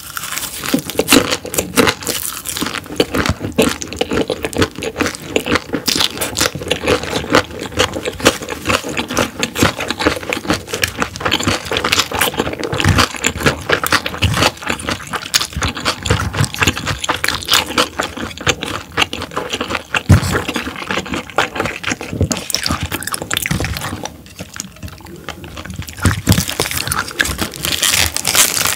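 Close-miked chewing of gwamegi (half-dried herring) and raw vegetables: a steady run of wet, crackly mouth sounds and crunching, easing off for a couple of seconds near the end.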